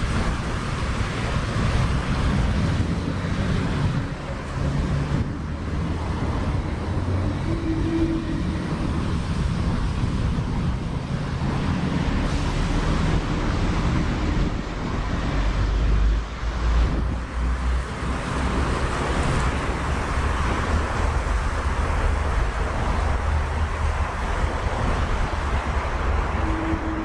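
Wind buffeting an action camera's microphone outdoors: a steady low rumble with an even rushing noise above it.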